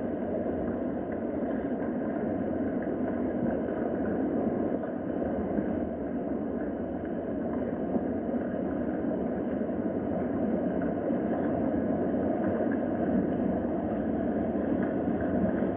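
Steady rain, an even hiss with no single drops or other events standing out.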